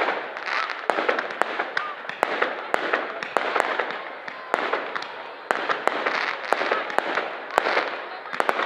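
Fireworks going off: an irregular string of sharp bangs and crackles, several a second, over a swelling hiss.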